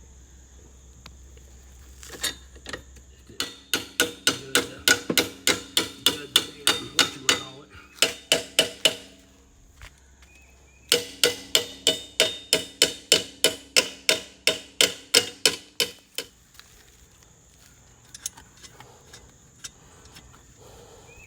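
Rapid metal-on-metal strikes, about four a second, each ringing briefly, while a trailer hitch is fitted to an ATV. They come in three runs: a long one a few seconds in, a short one, then another long one.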